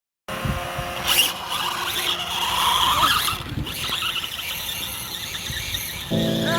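Electric radio-controlled dirt bike's motor and drivetrain whining, the high-pitched sound rising and falling as the throttle is worked. Background music comes in near the end.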